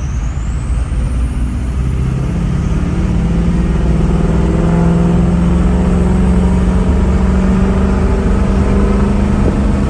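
Turbocharged 6.0 Powerstroke diesel V8 with a straight-piped exhaust, pulling away under load, heard from inside the cab. The engine note builds while the turbo whistle climbs steeply in pitch over the first few seconds as it spools.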